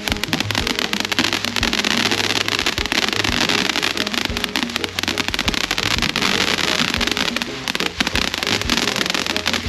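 Consumer firework crackling with a dense, rapid run of pops, over background music.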